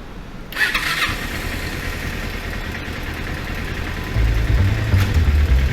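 Kawasaki Eliminator 250SE's parallel-twin engine starting and then idling, a low pulsing exhaust rumble that gets much louder about four seconds in.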